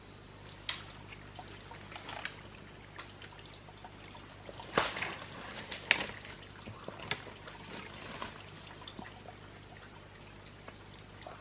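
Water trickling and splashing in small irregular bursts, the loudest a little before and at about six seconds in, over a steady high insect buzz.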